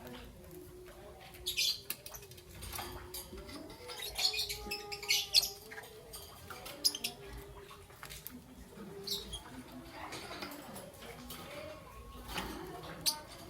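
Young peach-faced lovebird chirping in short, sharp, high-pitched bursts, a few at a time with pauses of a second or more between.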